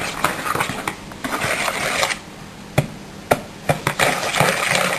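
Egg being stirred into creamed butter and sugar in a mixing bowl: a utensil scraping and clicking against the bowl in quick, irregular strokes, with a couple of sharper knocks.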